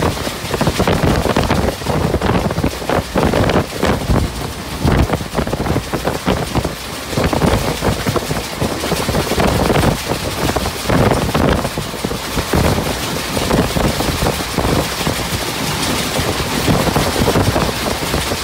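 Running noise of a moving train heard from a carriage window: a loud, continuous rush of noise broken by many small irregular knocks and rattles.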